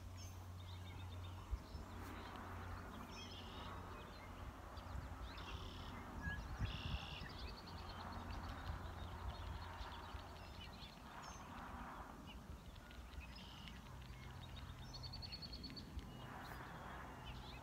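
Outdoor ambience: birds chirping and trilling over a steady low rumble, with a few faint clicks in the first few seconds. No shot is fired.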